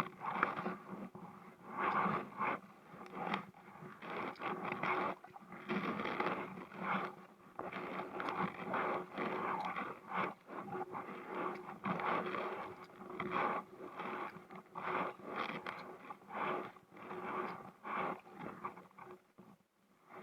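Kayak paddle strokes: the blades dipping and pulling through the water and the shaft scraping against the inflatable hull, in a steady rhythm of about one stroke a second.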